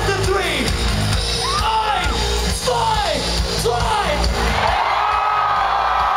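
Live rock band playing loud, with yelled vocals sliding up and down in pitch over heavy drums and bass. About five seconds in, the drums and bass drop out and a single held high note rings on as the song ends.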